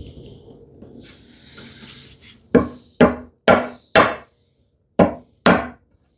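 Chisel chopping down a tenon shoulder along a knife line: a couple of seconds of scraping, then six sharp knocks into the wood, in two runs of four and two.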